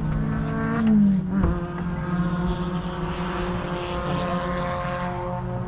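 Car engine running, its note dropping about a second in, then holding steady.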